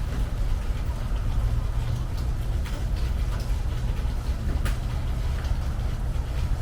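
Rain on a metal porch roof: a steady patter with scattered sharper drip ticks over a constant low rumble.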